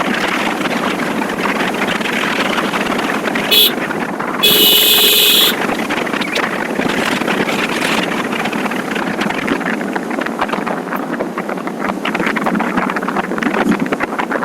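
Motorcycle on the move: steady wind rush over the microphone mixed with engine and road noise. A second or so into the middle, a short shrill blast is followed by a longer one about a second long, the loudest sounds here.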